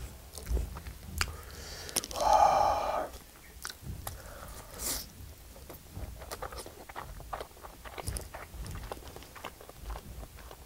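Close-up chewing and biting of a mouthful of seared Spam, with many small wet mouth clicks. A brief, louder pitched sound comes about two seconds in.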